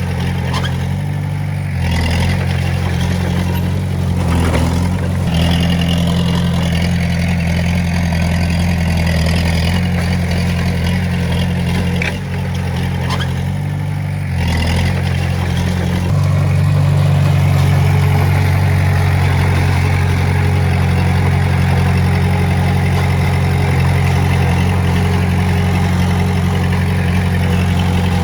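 Diesel engine of heavy earthmoving equipment running steadily under work. Its note dips briefly a few times and runs a little louder from just past halfway.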